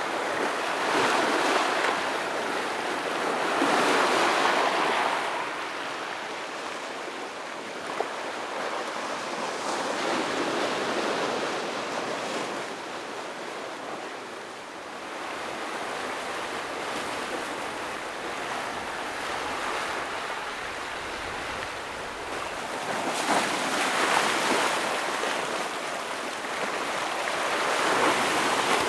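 Sea waves breaking and washing over shore rocks, swelling and ebbing in slow surges, loudest about four seconds in and again near the end.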